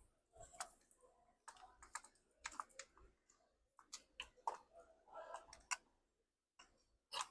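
Faint, irregular light clicks and taps of small metal parts and hand tools being handled during engine work, a dozen or more in quick uneven succession with a short pause near the end.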